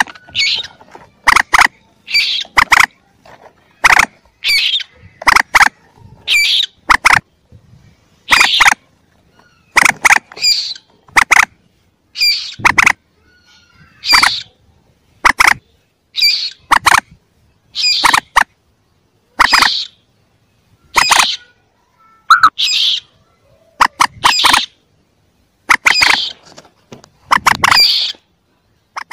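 Calls of a young mandar, a marsh rail of the moorhen kind: short, loud, sharp calls repeated about once a second, often in quick pairs. This is a recording used as a hunting lure to call mandar in.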